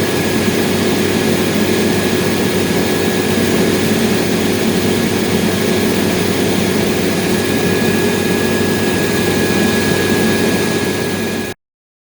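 Acros 585 combine harvester running steadily under harvesting load, heard from inside its cab, with a constant high-pitched whine over the machine noise. It cuts off abruptly near the end.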